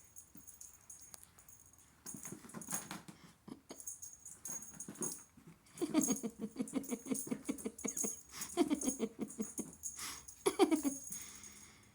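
Kittens playing: quick pattering and scrabbling of paws and claws with small knocks. Three short, low calls fall in pitch, about halfway through, near two-thirds and near the end.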